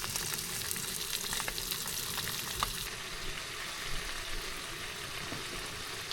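Food sizzling as it cooks: a steady hiss with scattered small pops.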